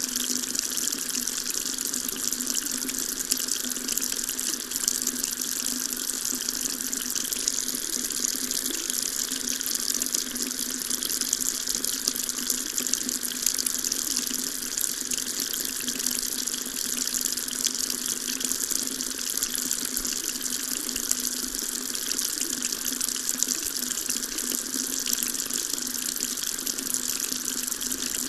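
Water tap running in a steady stream, an even splashing hiss that keeps on without a break.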